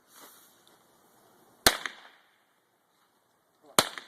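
Two sharp firework bangs about two seconds apart, one a little under two seconds in and one near the end, each with a short fading tail.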